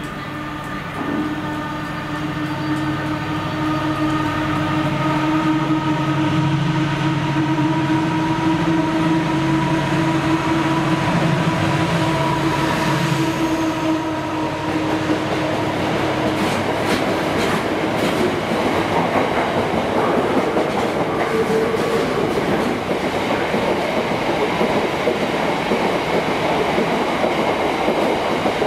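A diesel freight locomotive runs by hauling a container train. Its engine drone builds over the first few seconds and fades out about halfway through. The container wagons then roll past in a steady rumble with clickety-clack from the wheels.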